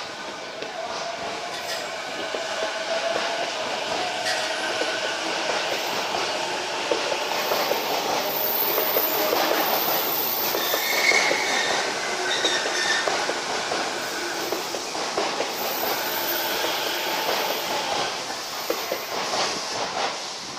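E233 series electric train pulling out and running past, its wheels clattering over rail joints. The sound builds to a peak about halfway through, then eases off.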